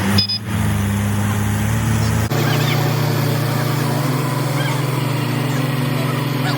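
Mahindra tractor's diesel engine running steadily, its low note changing abruptly about two seconds in. A brief high-pitched tone sounds near the start.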